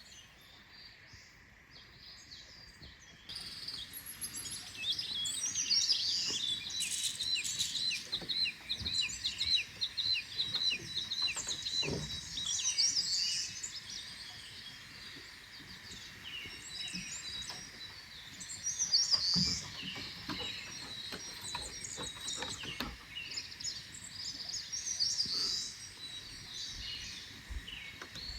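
Several songbirds chirping and calling in summer forest, many short, quick calls overlapping, beginning about three seconds in.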